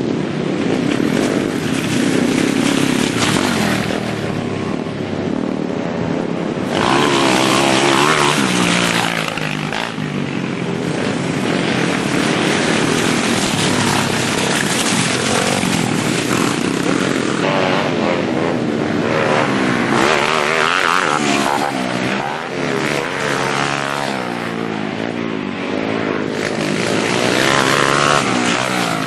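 Several small pit bike engines racing together, revving up and down as they rise and fall in pitch, with overlapping engine notes crossing one another.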